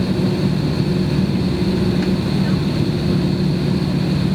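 Airbus airliner's jet engines at takeoff power, heard from inside the passenger cabin: a steady, loud drone with a low hum.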